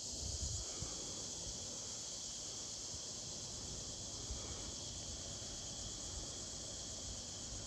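Steady high-pitched drone of cicadas, with a faint, uneven low rumble of wind beneath it.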